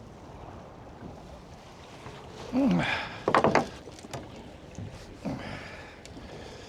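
Steady wind and water noise around a small fishing boat drifting at sea. About halfway through comes a short wordless vocal sound from the angler, followed by a few sharp knocks.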